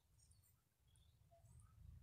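Near silence, with a few faint, short bird chirps in the background.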